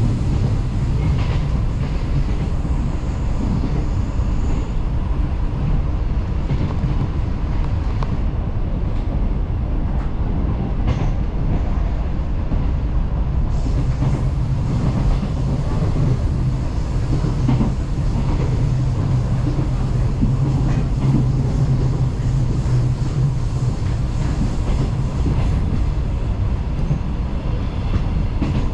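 Taiwan Railways electric local train running along the track: a steady rumble of wheels on rail, with a low hum that grows stronger about halfway through and eases near the end.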